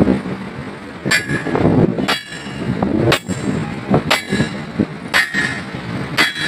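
Hammer blows on metal: six evenly spaced strikes about a second apart, each with a short metallic ring.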